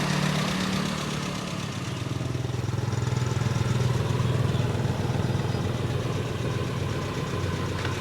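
Toyota 7K 1.8-litre inline-four gasoline engine idling steadily.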